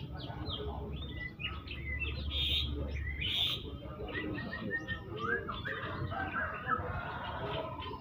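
Many caged birds chirping and twittering at once, short high calls overlapping throughout, with two brief hissy bursts a few seconds in.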